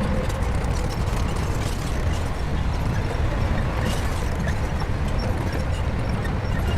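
Shantui crawler bulldozer's diesel engine running steadily, with faint scattered clicks throughout.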